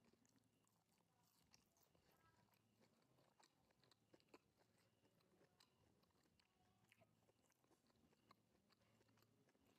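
Faint chewing of battered fried mushrooms: many small, irregular crunches and mouth clicks.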